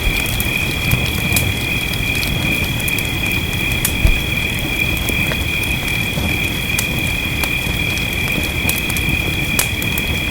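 Wood fire crackling, with scattered sharp pops and one louder pop about four seconds in, over a steady low rumble. A steady high-pitched two-tone drone runs beneath it.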